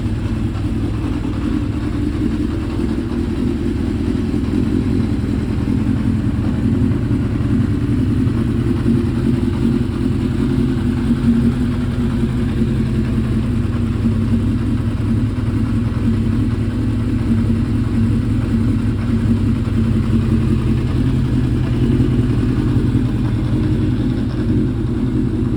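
Honda CB750F's air-cooled inline-four engine, breathing through a Yoshimura Cyclone exhaust, idling steadily at an even pitch.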